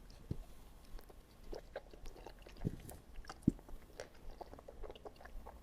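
Close-miked chewing and biting of food: many small, irregular crunchy crackles, with a few soft low thumps, the loudest about three and a half seconds in.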